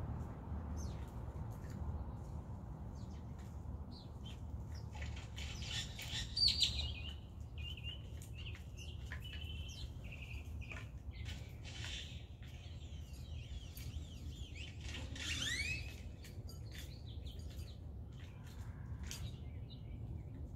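Birds chirping and calling in short, scattered calls, busiest about six seconds in and again around fifteen seconds, over a steady low rumble.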